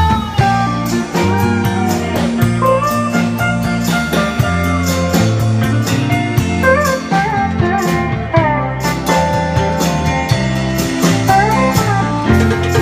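Live band playing an instrumental section: an electric lead guitar with bending notes over bass and a steady drum beat.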